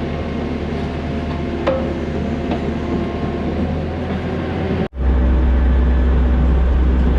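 Skid steer's diesel engine running steadily. The sound drops out for an instant just before five seconds, then the engine carries on louder and deeper.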